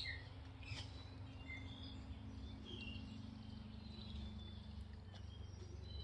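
Faint wild birds calling, scattered short chirps and notes, over a low steady rumble and hum of outdoor background noise.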